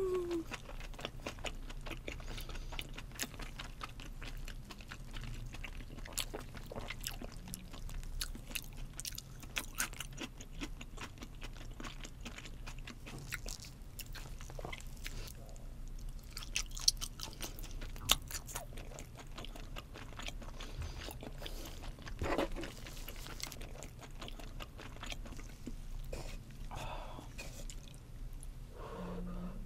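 Close-miked chewing of a mouthful of raw fish sashimi: a steady run of small wet clicks from the mouth. A short rising hum from the eater at the very start is the loudest moment.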